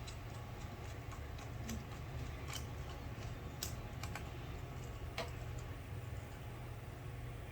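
Scattered light clicks and taps of small carburetor parts being handled, a second or so apart, over a steady low hum.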